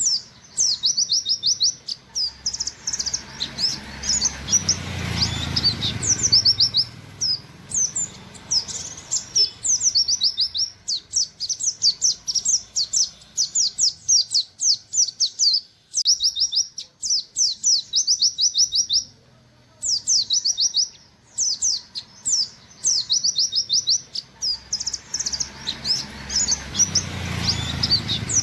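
White-eye (pleci, buxtoni type) singing in rapid-fire 'nembak' style: long runs of quick, high, falling 'wit wit' chirps, several a second, broken by short pauses. A low rumble swells and fades twice, about five seconds in and near the end.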